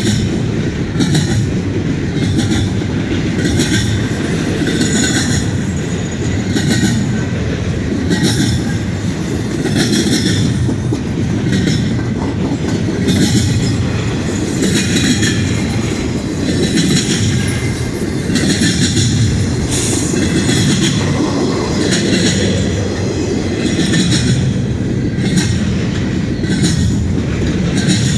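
CN intermodal freight train's cars rolling past close by: a steady low rumble of steel wheels on rail, with wheels clacking over rail joints in short repeated clusters.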